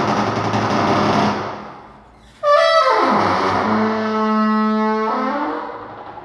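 A harsh mechanical buzzing fades out in the first two seconds. Then a loud brass-like horn tone starts abruptly, slides steeply down in pitch, holds a low note for about a second and a half, and bends back up as it fades.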